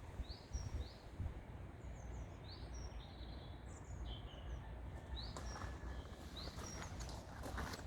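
Outdoor ambience with small birds chirping: short rising chirps repeated every second or so over a low, steady rumble. A few faint clicks come in the second half.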